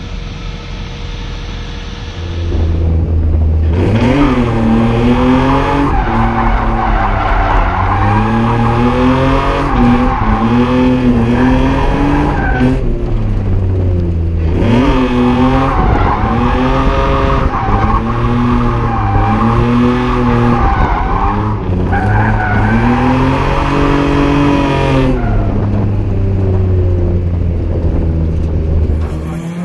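BMW E36 328is straight-six drift car driven sideways, its engine revving up and down again and again while the rear tyres squeal and skid. It runs lower and steadier for the first couple of seconds, then goes to full revs, and eases back near the end.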